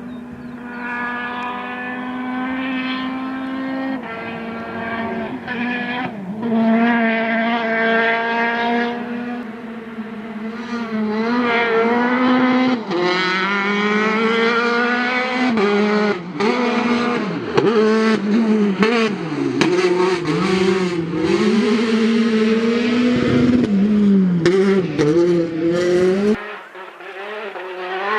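Peugeot 208 T16 R5 rally car's turbocharged four-cylinder engine at full throttle, revving up through the gears with pitch climbing and dropping at each shift. It grows louder from about six seconds in, then drops away suddenly near the end.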